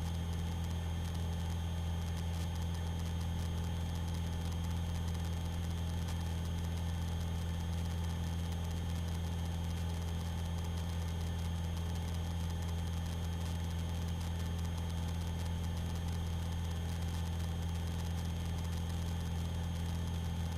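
Light aircraft's piston engine running at steady power in a climb, a constant low drone heard from inside the cockpit.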